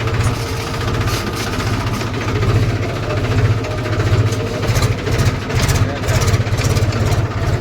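Tractor engine running steadily, a pulsing low rumble with a constant rattle of clicks over it.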